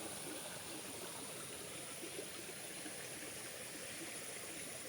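Running water of a stream fed by the day's rain: a steady, even rush.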